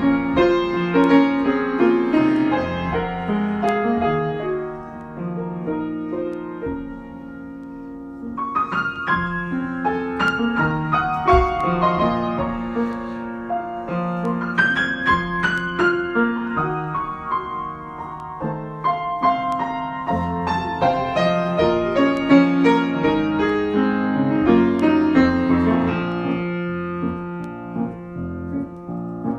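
Solo piano improvisation: chords and melodic runs with struck notes ringing on, quieter for a few seconds in the middle before building again.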